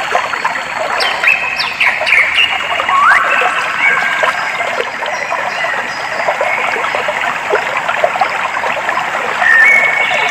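Clear water trickling and babbling steadily, with short bird calls over it: a few quick whistled notes early on, a rising whistle about three seconds in, and another call near the end.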